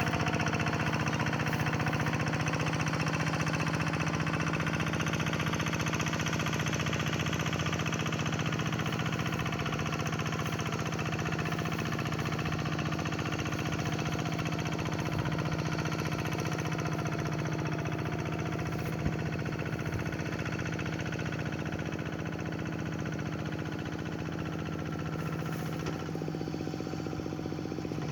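Single-cylinder diesel engine of a two-wheel hand tractor running steadily while plowing a rice paddy.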